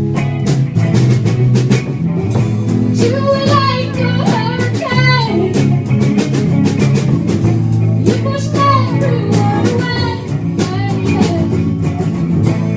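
A rock band playing, with a drum kit keeping a steady beat under guitar and bass, and a melodic line rising and falling in two phrases.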